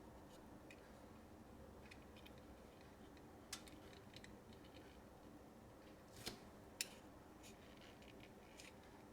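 Near silence with a few faint, sharp clicks and taps from a small toy car being handled.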